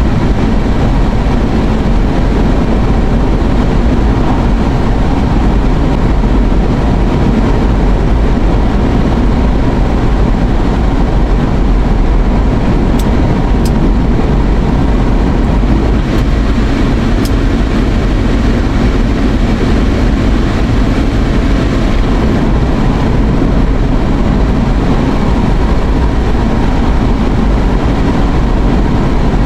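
Steady road and engine noise inside a moving car, an even rumbling hiss with no change through the stretch.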